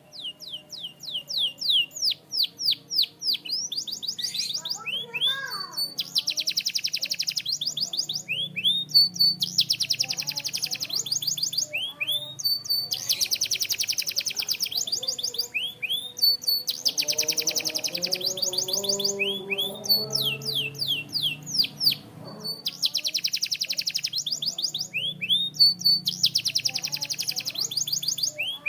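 Canary singing: a continuous song of fast, high trills, each lasting one to two seconds, alternating with runs of quick sweeping notes and short chirps.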